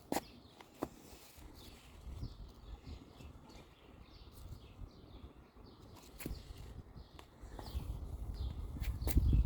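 Small birds chirping, with many short, high, downward-sliding chirps. There are two sharp clicks in the first second, and a low rumble grows louder over the last two seconds.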